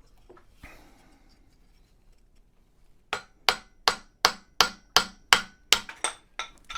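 Hammer blows driving a scrap-wood drift to knock a stuck handle out. After about three quiet seconds come eleven sharp, evenly paced strikes, nearly three a second.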